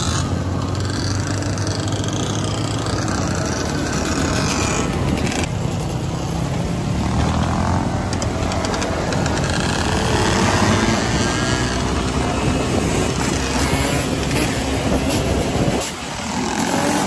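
Dirt bike being ridden: the engine runs with its pitch rising and falling under a steady rushing noise, easing off briefly near the end.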